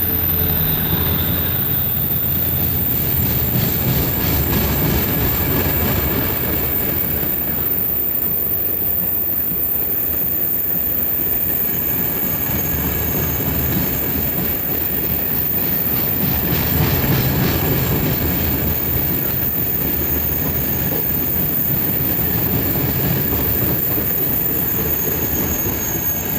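A long freight train of wagons rolling steadily past. The wheels rumble continuously, with runs of clickety-clack over rail joints and a thin wheel squeal.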